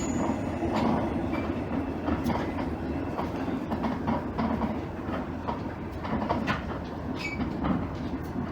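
Inside a JR East KiHa 110 series diesel railcar under way: a steady low drone from the diesel engine, with irregular clicks and knocks from the wheels on the rail.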